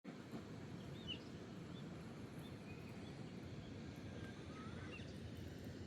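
Quiet outdoor ambience: a low steady background with a few faint, short bird chirps and whistles scattered through it.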